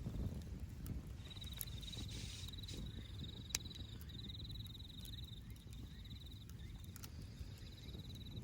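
An insect trilling in repeated high, pulsed phrases over a steady low outdoor rumble. Scattered sharp clicks run through it, with one loud snap about three and a half seconds in.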